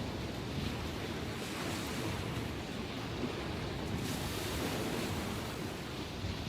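Ocean surf after a typhoon: a steady rush of waves breaking and washing, with wind on the microphone. The wash brightens slightly about four seconds in.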